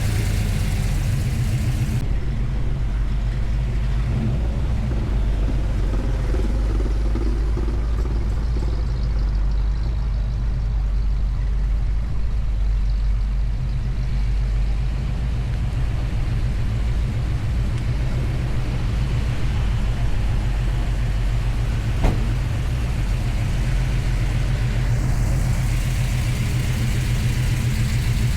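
A car engine idling steadily with a deep, even rumble. A single sharp click about three-quarters of the way through.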